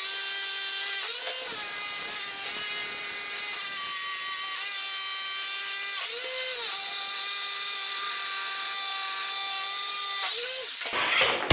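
Angle grinder cutting into old concrete: a steady, high motor whine with gritty hiss. The pitch jumps up briefly three times as the disc comes off the cut, and the grinder is switched off near the end.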